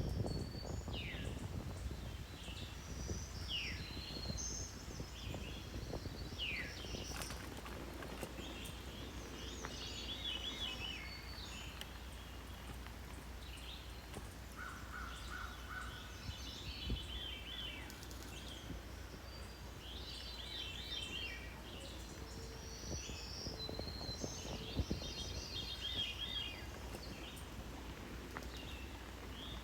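Several songbirds calling and singing: a few quick falling whistles in the first seconds, then repeated chattering bursts of song, over a steady low rumble.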